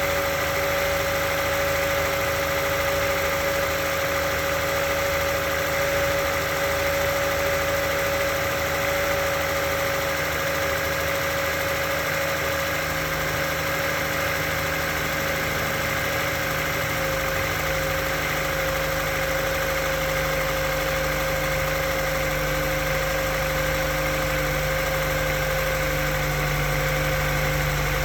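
Honda S2000's four-cylinder engine idling steadily, with a weird, steady whistle held over it at one pitch.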